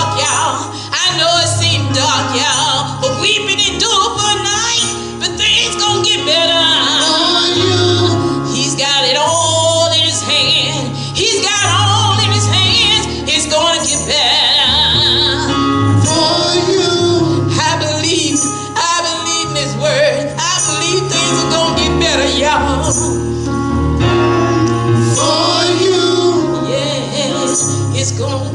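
Gospel singing with a band: voices singing over sustained bass notes and instruments.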